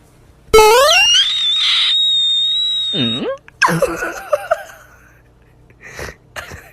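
A loud scream that starts suddenly, rises steeply and holds a high shriek for about two seconds. It is followed by a low swooping cry and a few shorter wavering cries.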